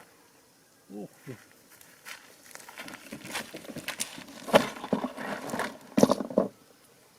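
Irregular rustling, crackling and knocks of materials being handled, most likely the cardboard and wood of a homemade trap. The sounds thicken from about three seconds in, with the loudest knocks at about four and a half and six seconds. There is a brief spoken syllable about a second in.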